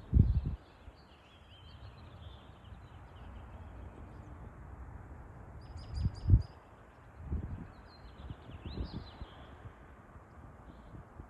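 Small birds chirping and twittering in short, quick phrases, broken by four brief low thumps, the loudest at the very start and about six seconds in.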